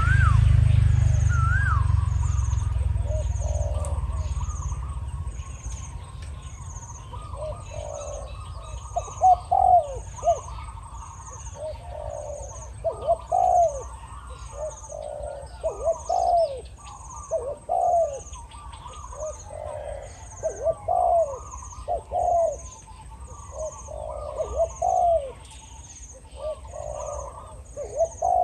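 Spotted doves cooing: repeated deep, rolling coos that come in clusters every second or two. A high, evenly spaced chirp repeats about every 0.7 s behind them, and a low rumble fades out over the first few seconds.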